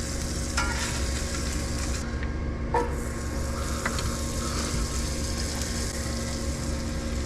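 Smash burger patties sizzling in a hot pan, with a couple of sharp clicks of a utensil against the pan. A steady fan hum runs underneath.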